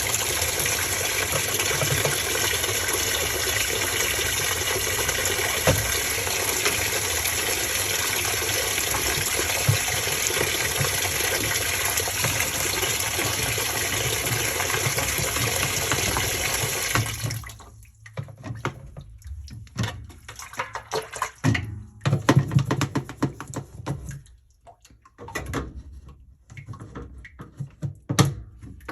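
Water running steadily into the washing machine tub, cutting off suddenly about two-thirds of the way in. After that come irregular scrubbing noises and knocks inside the machine.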